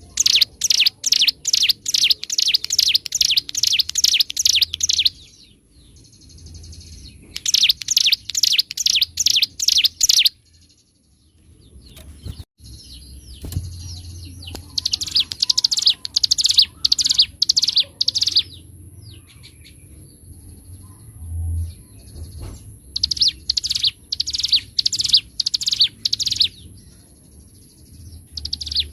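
Ciblek gunung, a prinia, singing in long runs of rapid, evenly repeated sharp notes. There are five runs of several seconds each, separated by short pauses.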